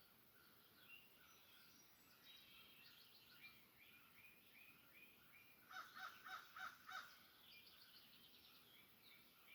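Faint birdsong: several birds chirping and trilling, with a run of five louder, lower calls in quick succession a little past the middle.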